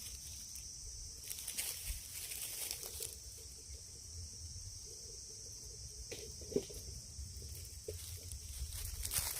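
Quiet outdoor ambience: a steady high-pitched hiss with a faint low rumble, and a few soft knocks and rustles.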